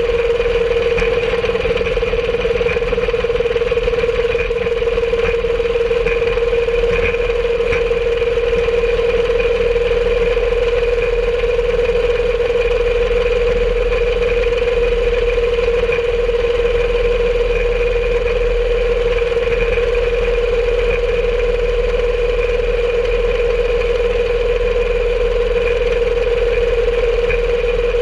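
A home-made rail cart (DIY speeder) running steadily along the track: an even motor drone with a steady high whine over a low rumble, and faint clicks here and there.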